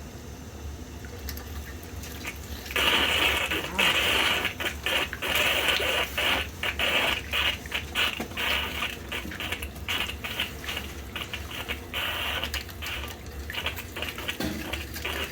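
Steam boiler sight-glass fitting being cleared of rust: a loud, rough, irregular sputtering rattle starts abruptly about three seconds in, as steam and rusty water are forced out through the passage being cleaned. A steady low hum runs underneath.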